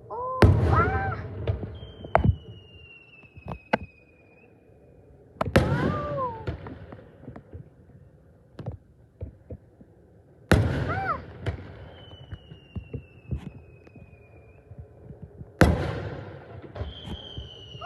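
Aerial fireworks bursting: four loud booms about five seconds apart, each followed by a rumbling echo and scattered crackles.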